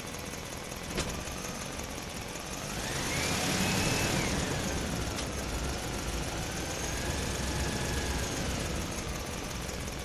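Motor running steadily with a low rumble, its whine rising about two and a half seconds in and falling away again after about four seconds; a sharp click about a second in and another about five seconds in.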